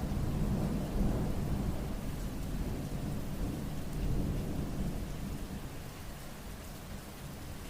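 Steady rain falling during a thunderstorm, with a low rolling rumble of thunder that swells a couple of times and slowly dies away.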